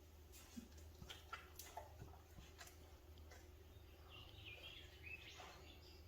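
Faint bird call: a short run of stepping notes about four seconds in, after a few faint ticks in the first two seconds or so, over a low steady hum.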